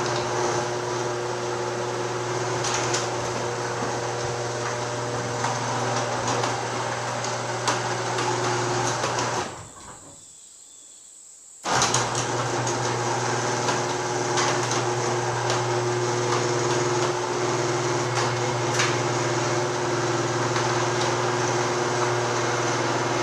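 Newly installed screw-drive garage door opener running smoothly, a steady motor hum with a rattle of the drive. It stops for under two seconds about ten seconds in, then starts again suddenly and runs on.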